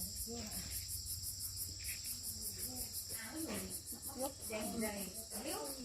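Insects chirping in a fast, even pulse, with faint voices talking in the background from about halfway through.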